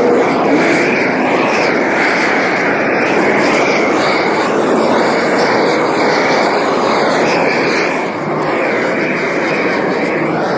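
Loud, steady vehicle noise: a dense rushing drone of engines and road or wind noise, with no clear breaks.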